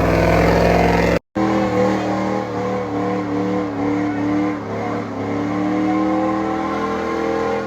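Truck engines running and revving, their pitch wavering up and down, with an abrupt cut about a second in.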